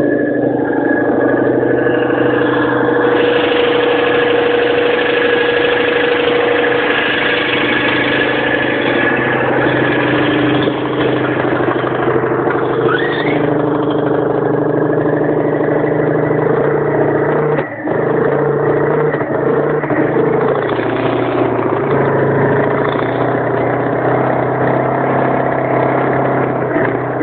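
Citroën Dyane 4's 435 cc air-cooled flat-twin engine running, its speed shifting slightly in the second half, with a brief dip in level about two-thirds through.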